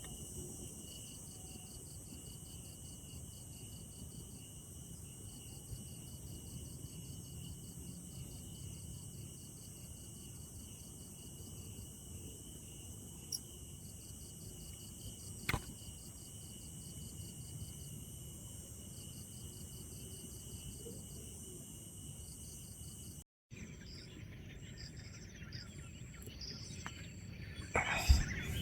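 Night insect chorus of crickets: one holding a steady high note while another trills in rapid, even pulses above a low background hum. After a brief dropout the chorus changes, and a sharp knock near the end is the loudest sound.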